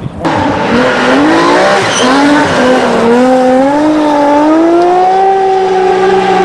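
Rally car engine at high revs, its pitch dropping and climbing again several times through the gear changes, then climbing steadily as the car accelerates and holding near the end. It starts abruptly just after the opening.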